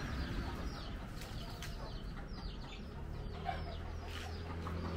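Chickens calling, with many short, high, falling chirps scattered throughout over a low steady background.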